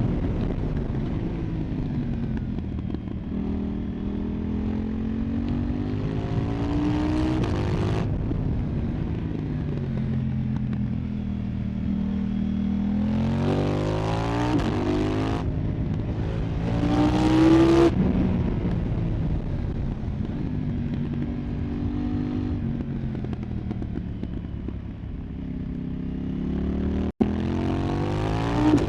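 2024 KTM 990 Duke's parallel-twin engine through an Arrow Pro Race exhaust, heard onboard while riding: the revs climb hard several times and then fall away between pulls. The engine hisses loudly at the top of each pull. The audio briefly cuts out near the end.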